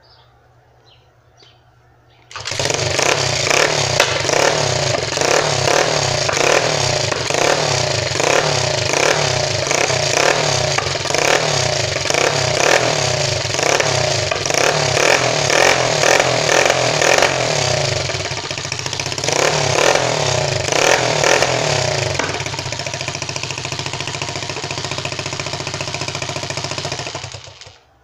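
Honda CG 125 single-cylinder four-stroke engine on a bare exhaust pipe with no muffler. It starts about two seconds in, is revved up and down over and over, settles to a steadier run, and is shut off just before the end. The engine has worn rings and cylinder, which the owner says make it smoke.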